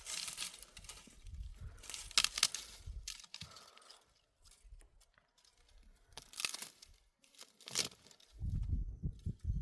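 Dry plants being torn and broken by hand: a few short tearing, crunching rustles with pauses between them, then a low rumble near the end.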